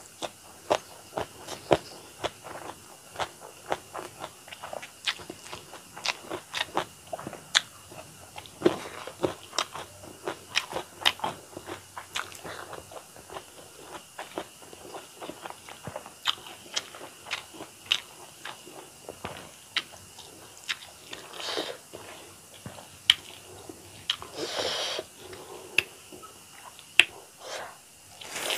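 Close-miked eating by hand: wet chewing of a mouthful of rice and curry, with sharp lip smacks and mouth clicks about two to three a second. A longer noisy sound comes about three-quarters through.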